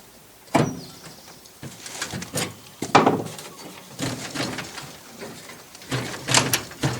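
Irregular sharp metal knocks and clanks, with some scraping, as the steel dash of a 1950s Chevrolet/GMC pickup is worked and pried loose past a bracket; the loudest knock comes about three seconds in.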